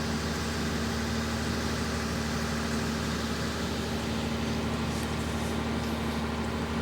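Boat engine running steadily, an even low hum with a constant drone.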